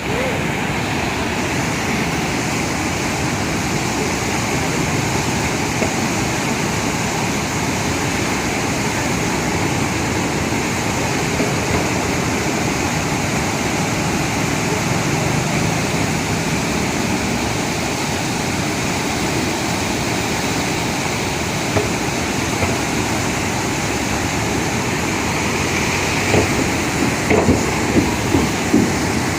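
Steady, unbroken rushing of monsoon water, with a few short sharp knocks or splashes near the end.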